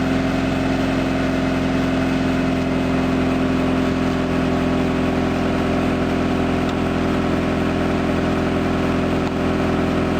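Car engine idling steadily at an even pitch.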